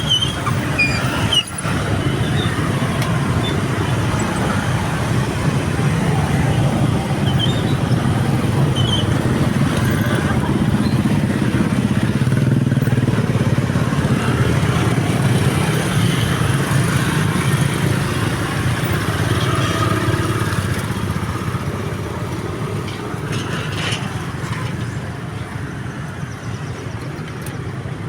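Steady road traffic, motorcycles and cars driving past, with a brief knock about a second and a half in.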